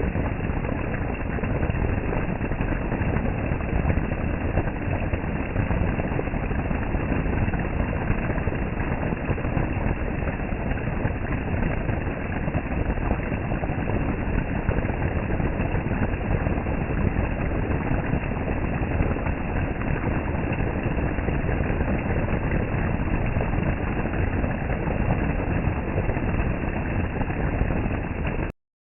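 Steady rushing noise of storm water from heavy hurricane rain, with no break in it, cutting off suddenly near the end.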